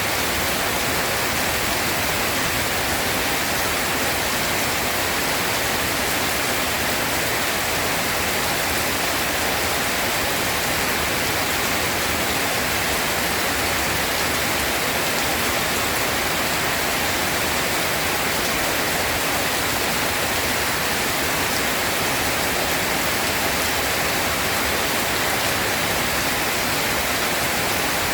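Steady heavy rain: an even, unbroken hiss with no thunder claps or other sudden sounds.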